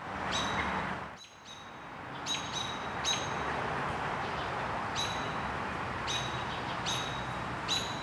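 Short, high bird chirps, single and in pairs, about once a second, over a steady background rush.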